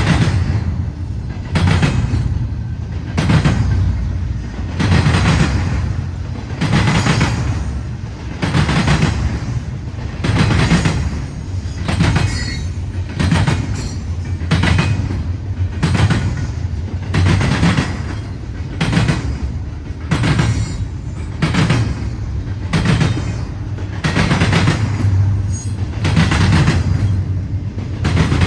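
Freight train cars rolling past, their wheels knocking over rail joints in a steady rhythm of about one clack a second over a continuous rumble.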